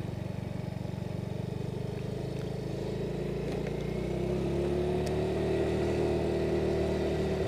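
Motorcycle engine running, recorded by an action camera's internal mic inside the rider's helmet. About halfway through it grows louder and a whine rises in pitch and then holds steady as the bike picks up speed.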